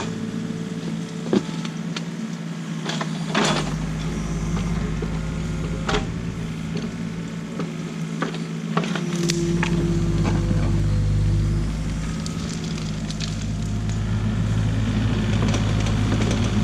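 Excavator engine running steadily, with a few sharp knocks and clanks. The engine grows louder about nine seconds in, as if under more load.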